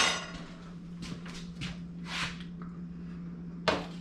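Plate and kitchen utensils being handled while pizza is served: a clatter at the start, a few soft scrapes, and a sharp knock near the end.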